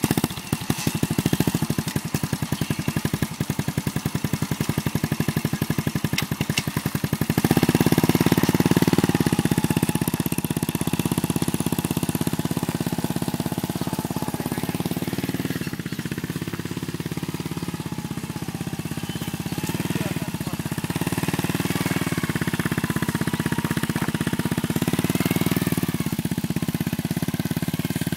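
Antique English motorcycle engine running. Rapid separate firing beats for the first seven seconds or so, then louder and steadier, with engine speed rising and falling.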